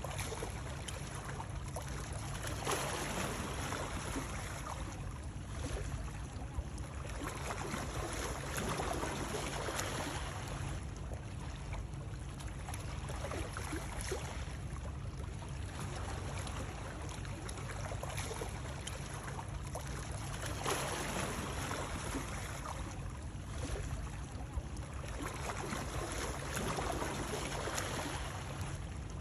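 Continuous water noise, lapping and trickling, that swells and eases about every three seconds.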